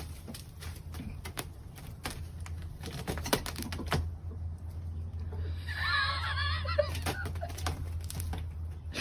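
A bird's brief warbling twitter a little past the middle, over scattered light clicks and taps and a low steady hum.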